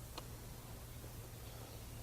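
Quiet background room tone with a faint, steady low hum and one faint tick shortly after the start; no engine is running.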